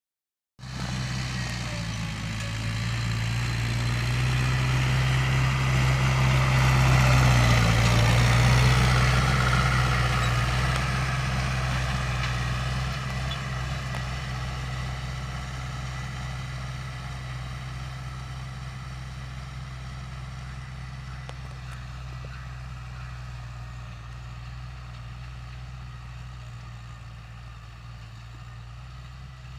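Mahindra 575 DI tractor's four-cylinder diesel engine running steadily. It grows louder to a peak about eight seconds in, then slowly fades, as of a tractor driving past and moving away.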